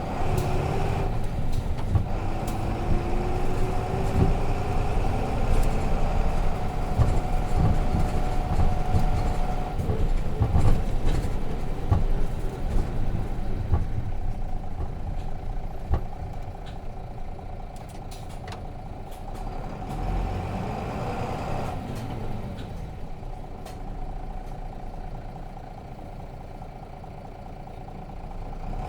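Heard from inside the bus: a 2002 Nissan Diesel KK-RM252GAN route bus with its FE6 six-cylinder diesel engine under way. The engine note rises steadily in pitch over the first ten seconds or so as it pulls. After about 16 s it eases off and runs quieter.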